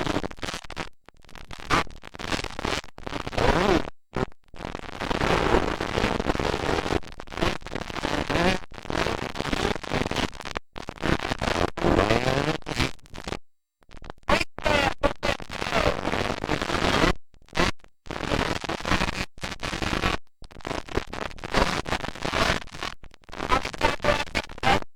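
Motocross dirt bike engines revving and changing pitch as they run, in a harsh, noisy mix. The sound cuts out completely for a moment several times.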